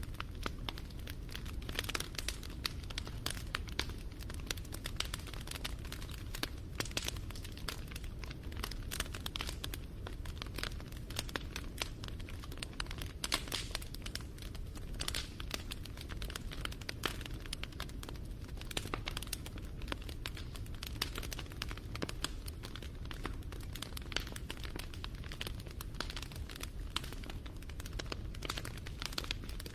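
Wood bonfire crackling: a dense, irregular run of sharp pops and snaps over a steady low rush of the burning fire.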